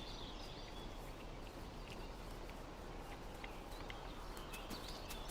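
Faint outdoor field ambience: a steady hiss with scattered short bird chirps and small clicks.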